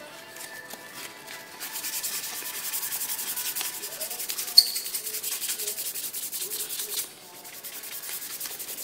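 Fast back-and-forth hand-shaping strokes, an abrasive rubbing on the wooden knife-handle scales, with a sharp click about halfway through. The strokes get quieter near the end.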